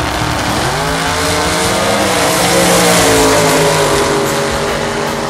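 Drag race car's engine at full throttle, a loud roar whose pitch rises about a second in, holds, then falls off after about three seconds.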